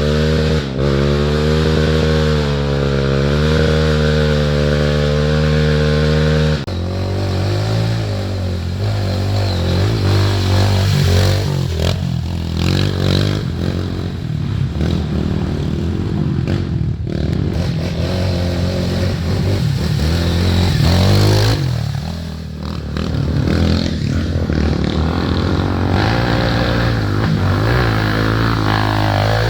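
Off-road trail motorcycle engines running and revving. One engine holds a steady rev for the first six seconds or so, then the sound changes abruptly to a rougher mix of engines rising and falling in pitch.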